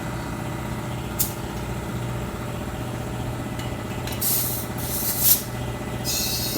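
Compressed air hissing during skid steer tire mounting: a brief blast about a second in, two stronger blasts midway, then a continuous hiss near the end, over a steady low machine hum.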